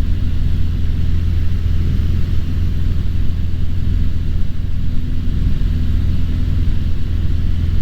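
Cessna 150's 100-horsepower four-cylinder engine and propeller droning steadily in flight, heard from inside the cabin.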